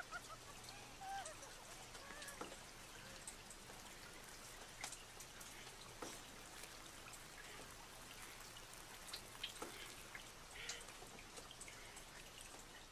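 Faint stage sounds: scattered light drips, ticks and small splashes of water with soft knocks, over a quiet hall. A wavering wordless voice trails off and falls in pitch about a second in.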